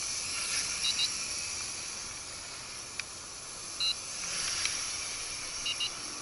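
Nihui U807 micro quadcopter's brushed motors and propellers buzzing in flight, a high hissy whir that swells and fades as it moves about. A few short high beeps come through it.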